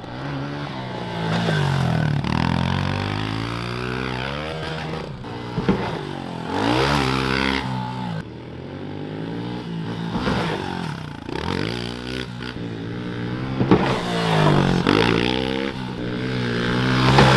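Dirt bike engine revving up and dropping back again and again as it is ridden, with a couple of short sharp knocks.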